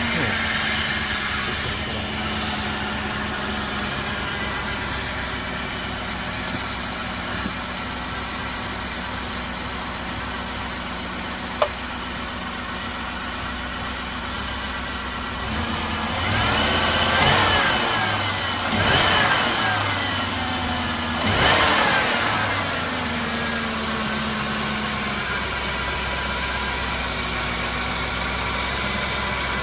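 2002 Lincoln Town Car's 4.6-litre V8 idling on its first start after an intake manifold replacement, running a little shaky. A little past halfway it is revved three times in quick succession, each rev rising and falling back to idle, with one sharp click a few seconds before.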